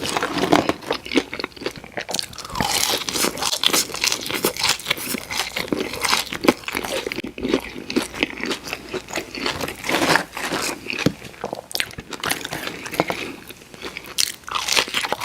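Close-miked eating of crunchy fried food: bites into a crisp breaded crust followed by steady crunching and chewing, a dense run of irregular crackles with no pauses.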